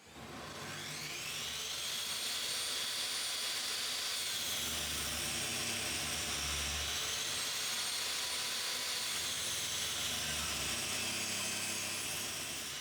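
Table saw running and ripping a softwood strip held in a jig: a steady high whine that climbs in pitch over the first second or two, sags from about four seconds in as the blade takes the cut, and climbs back near the end.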